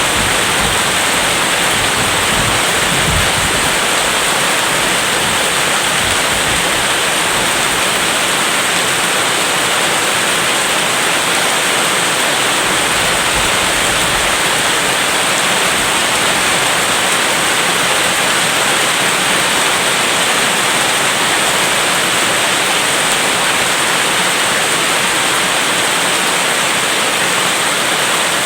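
Heavy rain falling steadily as a dense, even hiss, with a low rumble in the first few seconds.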